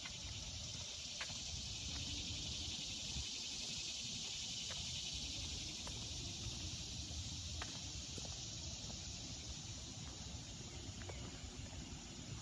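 A steady, high-pitched buzz of an insect chorus in the trees, with a low rumble and a few faint ticks underneath.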